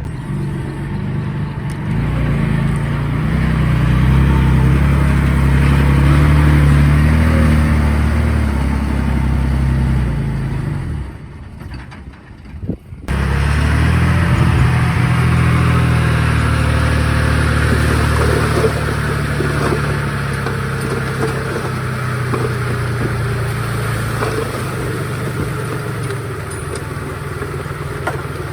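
Komatsu D51PX bulldozer's diesel engine running steadily under load, a low drone with mechanical clatter above it. It drops away for about two seconds near the middle, then comes back abruptly.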